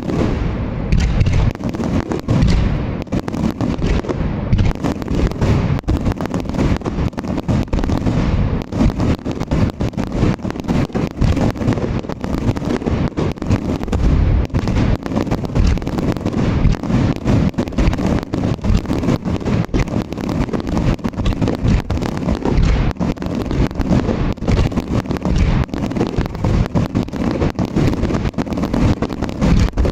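Aerial fireworks at close range: a dense, continuous barrage of shell bursts, with many overlapping booms and cracks each second.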